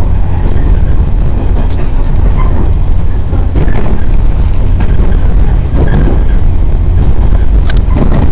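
Running noise of a JR 115 series electric train heard from inside the passenger cabin: a loud, steady rumble of wheels on rail and car body, with a few brief knocks from the track.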